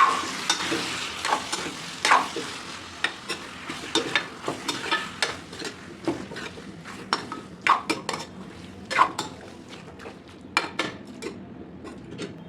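A spoon scraping and clacking irregularly in a kadai as raw chicken pieces are stirred into a frying onion-tomato masala, over a hot-oil sizzle that grows fainter toward the end.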